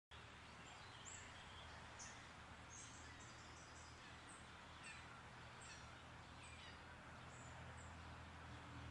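Faint birds chirping at dawn: many short, high calls scattered through, over a steady hiss and low hum.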